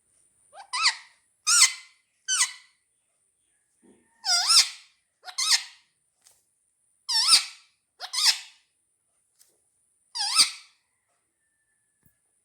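Pet parrots squawking in a squabble, about eight short, harsh screeches spaced irregularly.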